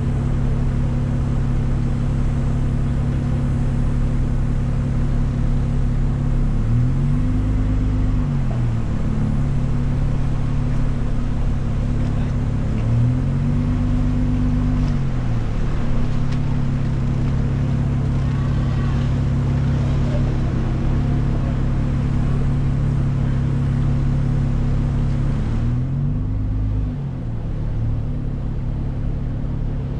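Jeep Wrangler engine running steadily at low speed, heard from the hood. Three times the pitch rises and falls over a couple of seconds as the throttle is pressed and eased.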